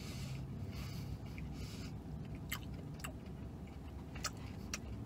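Quiet chewing of chicken fingers, with a few faint sharp mouth clicks scattered through it, over a steady low hum in a car cabin.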